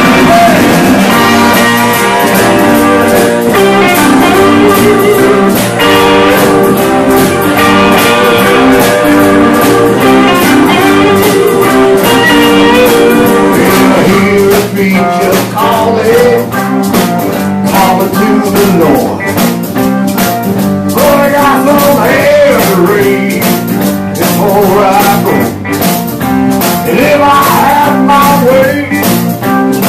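Blues-rock band playing an instrumental passage: guitar over a steady drum beat, with bending guitar lines in the second half.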